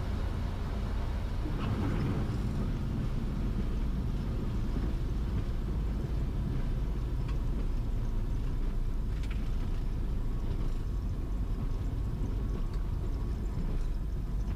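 Cessna 172S's four-cylinder Lycoming engine and propeller running at low power, heard inside the cockpit as a steady low rumble.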